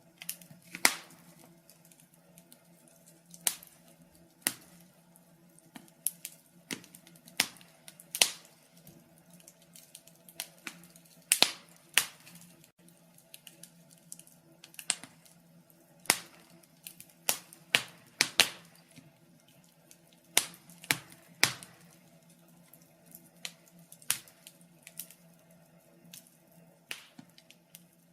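Wood fire crackling: irregular sharp pops and snaps, a few a second, some louder than the rest, over a faint steady low hum.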